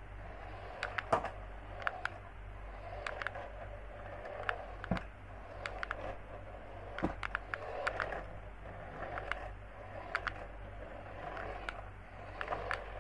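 Hands handling a toy and its plastic packaging: irregular clicks and bouts of rustling, over a steady low electrical hum.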